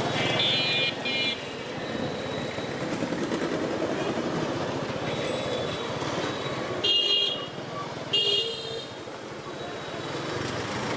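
Vehicle horns tooting in road traffic, twice in quick succession at the start and twice more around seven and eight seconds in, over a steady rumble of engine and road noise.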